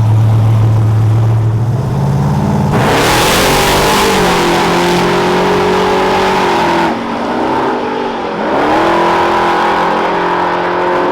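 A high-powered drag-racing vehicle's engine running with a low rumble, then revving hard and accelerating about three seconds in, its pitch climbing and then holding. The engine eases off briefly around the middle and pulls hard again until it cuts off near the end.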